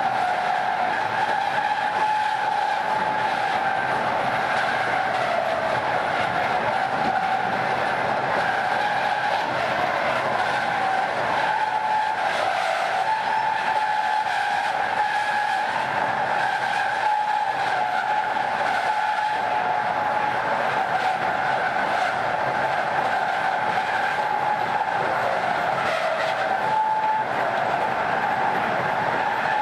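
Train wheels singing on the rails: a steady, high, wavering whine in two pitches, one about double the other, over the noise of the running train. The uploader suggests it may come from unusually worn rail heads or a slightly narrow track gauge that makes the wheel rims rub harder on the rails.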